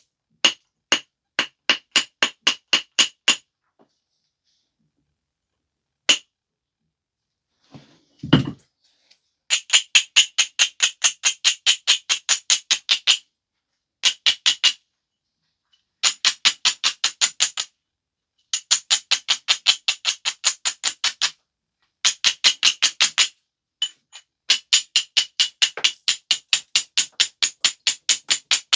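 Stone biface being worked by hand: quick runs of sharp, clicking stone-on-stone strokes, about four a second, broken by short pauses, with one dull thump about eight seconds in.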